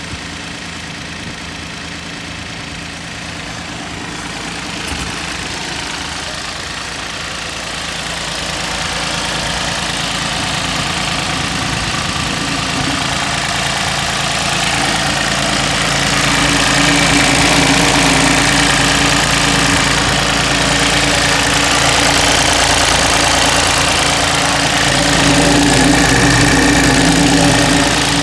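Iseki TU1400 compact tractor's diesel engine running steadily, growing louder through the first half or so and then holding.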